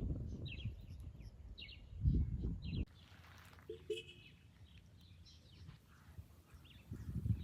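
Small birds chirping outdoors in short, repeated calls, over a low rumble and a few thumps of footsteps for the first three seconds. After an abrupt cut about three seconds in, the sound drops to quieter scattered birdsong.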